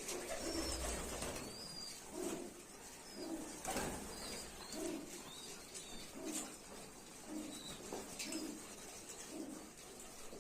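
Domestic pigeons cooing over and over, about one low coo a second, with a few faint high chirps of small birds mixed in.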